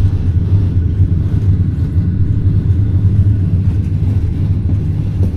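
Steady low rumble of a green-carriage passenger train running on the line, heard from inside the sleeper car.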